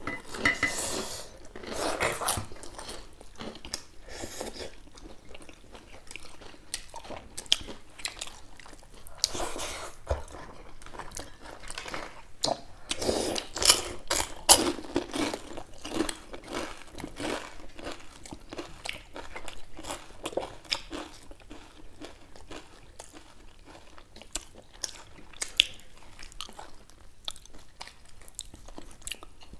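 Eating sounds from two people eating dhido and chicken curry by hand: steady chewing with irregular crunchy bites and small mouth clicks.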